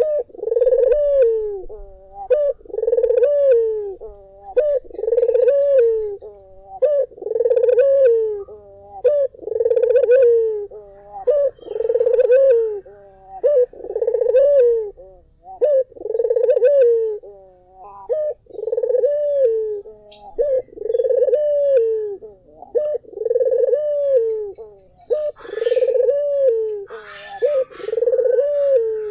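Ringneck dove (puter) cooing over and over, about one coo a second, each a low note that rises and then falls.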